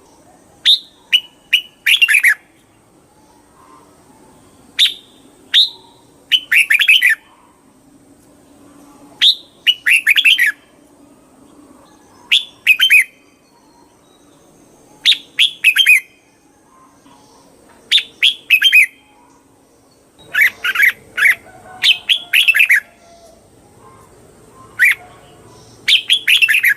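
Red-whiskered bulbul singing short, quick phrases of chirpy whistled notes, repeated every couple of seconds with pauses between them and coming more closely together about twenty seconds in.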